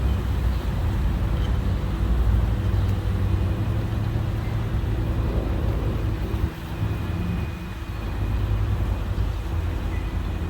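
Steady low engine rumble, dipping briefly about six and a half seconds in.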